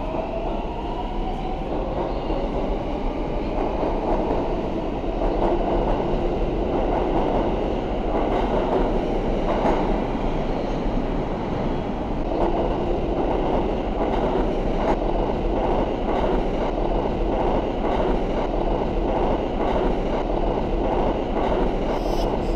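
Subway train running at speed, a steady rumble of wheels on rails with faint clicks. A whine falls in pitch over the first couple of seconds.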